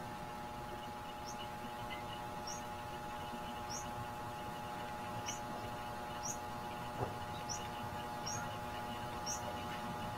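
A bird chirps over and over, short high rising chirps about once a second, over a steady hum made of several held tones. A single sharp click comes about seven seconds in.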